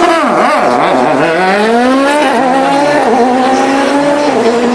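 Rally car engine revving hard, its pitch swinging up and down quickly at first, then climbing steadily and holding high.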